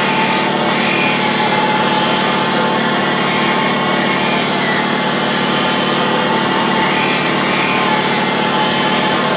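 An old surface grinder, dating from around 1940, running steadily as it grinds a wood chipper blade: a constant, even machine noise with a steady hum and a high tone, with no change or pause.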